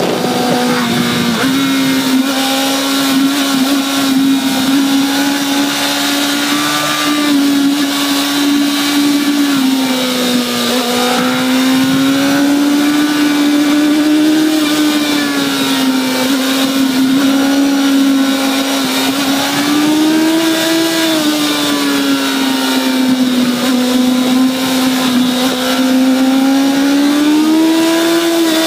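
Honda CBR1000RR's inline-four engine running hard at high revs, with heavy wind rush at speed. Its pitch steps up about a second and a half in, then rises and falls gently as the throttle changes.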